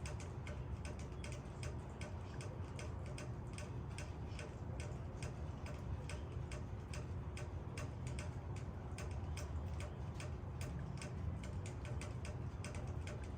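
Raindrops hitting leaves, a string of sharp, slightly irregular taps several times a second, over a steady low rumble.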